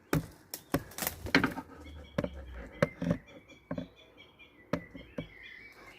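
Scattered sharp knocks and cracks from footsteps crossing loose debris. From about halfway, a small bird chirps a quick run of repeated notes, about five a second.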